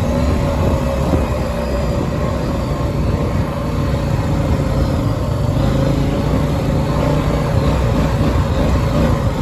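Dirt bike engine running at a steady speed, with an even rumble and a steady whine.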